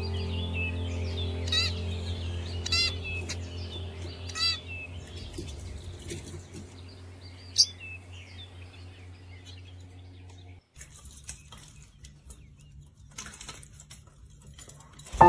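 Small birds chirping and calling, with several sharp repeated calls, over a steady low hum. About ten seconds in, the chirping stops abruptly and only scattered faint clicks and taps are left.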